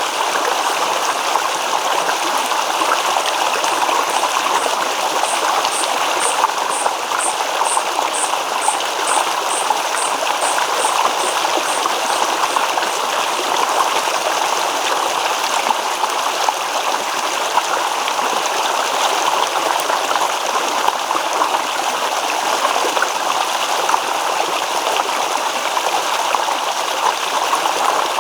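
Small stream babbling and trickling over stones, a steady rush of water. Over the first half a high chirp repeats evenly about twice a second, swelling and then fading away.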